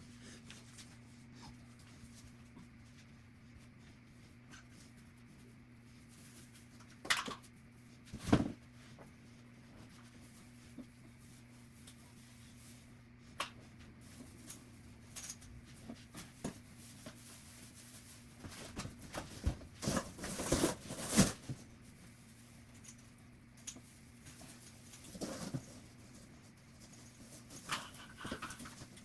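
Household tidying played back at double speed: scattered knocks, clatter and handling noises of objects being moved, busiest for a few seconds past the middle, over a faint steady hum.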